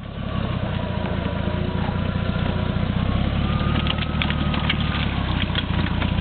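Jeep Cherokee XJ's engine running steadily at low revs as the truck crawls slowly through mud. A few sharp clicks come through between about three and a half and five and a half seconds in.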